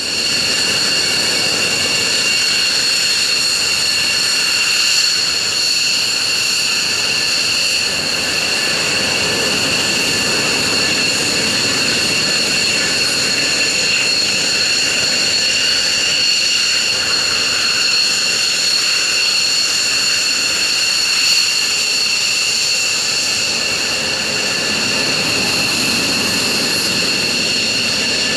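Jet engines running at a steady idle, a high whine of several steady tones held without change over a rumbling hiss.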